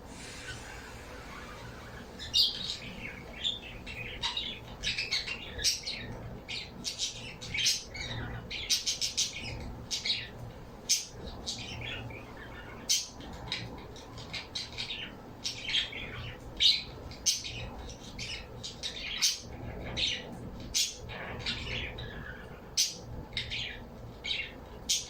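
Pet birds calling: many short, high-pitched chirps in quick, irregular succession, starting about two seconds in.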